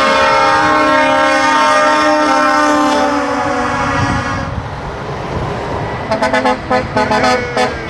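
Truck air horn sounding one long blast that drops slightly in pitch as the truck passes and fades out about four seconds in, followed near the end by a quick run of short horn toots.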